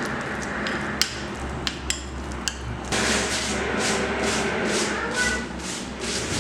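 Kitchenware clinking a few times, then a steady run of scraping strokes, about three a second.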